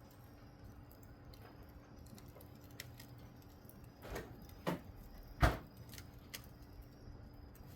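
Wood fire burning faintly, with scattered small crackling clicks, and three louder sharp sounds a little past the middle, the last the loudest.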